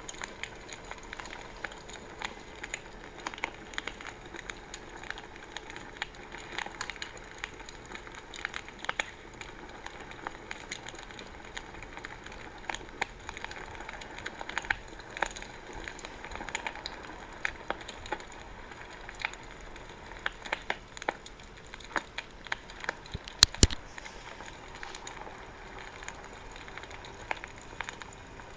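Wood fire burning with steady crackling and frequent sharp pops over a soft hiss, including two loud pops close together about two thirds of the way through.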